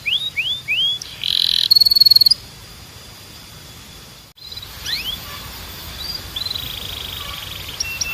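Domestic canary singing: a run of quick rising whistled notes, then a loud rapid trill about a second in. After a brief break just past four seconds, softer trills and rising notes follow.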